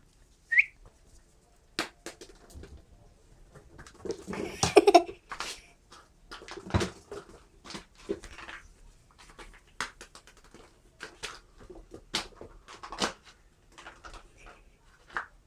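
Husky puppy playing with small plastic balls: a scatter of light clicks and knocks from the balls and paws on the floor, with a brief high squeak near the start and a louder flurry of sound about four seconds in.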